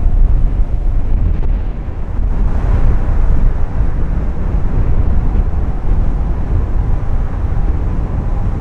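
Wind buffeting the microphone, a loud gusting rumble, over the engine noise of an airliner landing, which grows louder about two and a half seconds in.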